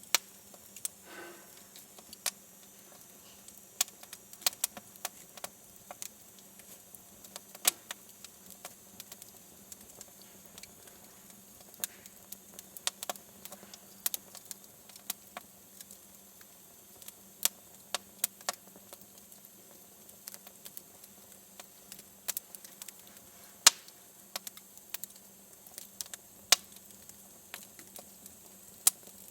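Wood fire in a fireplace crackling, with irregular sharp pops and snaps, a few much louder than the rest, and a brief hiss about a second in.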